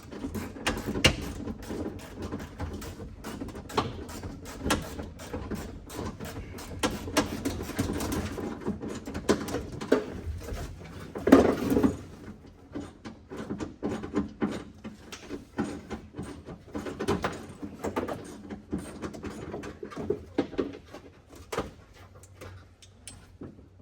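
Irregular clicking, knocking and rattling of hand tools and metal and plastic parts as a car's floor shifter is worked loose, with a louder clatter about eleven seconds in.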